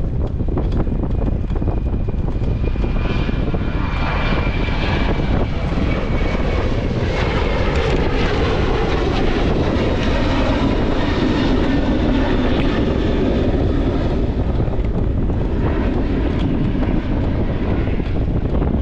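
A passenger airplane's engines during takeoff, the noise swelling to a peak in the middle and easing toward the end, with a thin whine early on. Steady wind noise buffets the microphone throughout.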